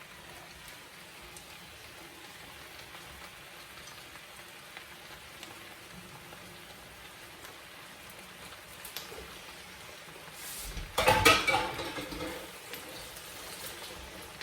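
Chopped peppers and tomato frying in a pan: a steady, faint sizzle. About eleven seconds in, a louder burst of clatter and sizzling breaks in briefly.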